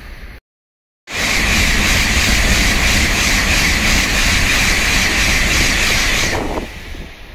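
Tokaido Shinkansen train passing: a loud steady rush of wheel and air noise that cuts in about a second in, after a brief gap of silence, and falls away about six seconds in as the train goes by.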